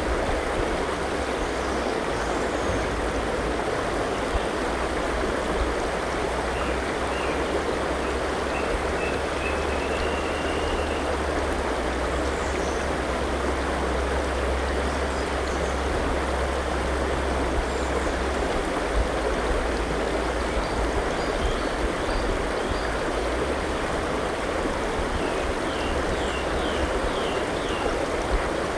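Forest river flowing steadily as an even rushing of water. Faint birdsong sits over it: a run of chirps about a quarter of the way in, and a quick series of about five short calls near the end.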